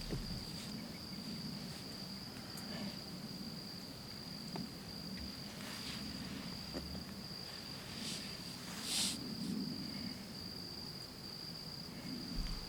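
Insect, likely a cricket, trilling in one steady high-pitched tone, with a few brief faint rustling noises now and then.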